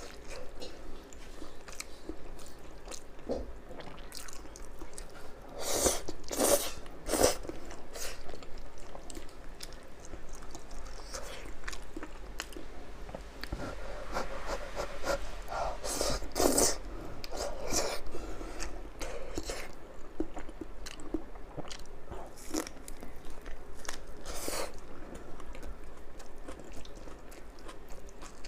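Close-up eating sounds: crunchy bites into crisp fried food, with chewing in between. The loudest crunches come in clusters about six, sixteen and twenty-four seconds in.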